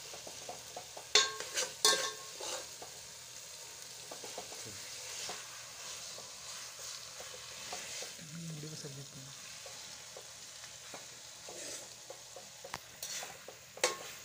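Chicken sizzling in masala in a metal pot over a charcoal fire while a steel spoon stirs and turns it, with a steady frying hiss and sharp clinks of the spoon against the pot, loudest about a second in and again near the end.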